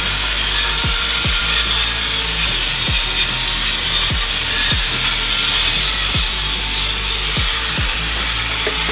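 A power tool running steadily against the vehicle's metal, giving a loud continuous grinding hiss, over background music with a steady thumping beat.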